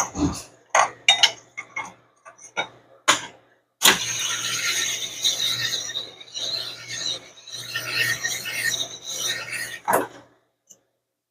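Connecting rod big end being honed on a rod honing machine: a few metallic clicks and knocks, then a steady rasp of the abrasive stone in the bore over the machine motor's hum, which stops about ten seconds in.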